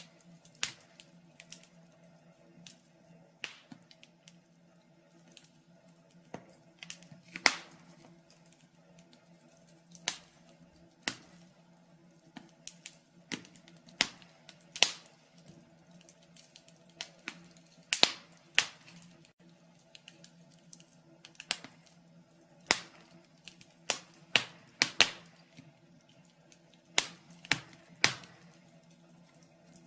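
Wood fire in a fireplace crackling, with irregular sharp pops and snaps, some in quick clusters, over a faint steady hum.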